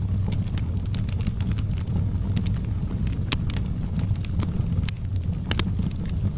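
Wood fire crackling, with irregular sharp pops (two louder ones, about three and five and a half seconds in) over a steady low rumble.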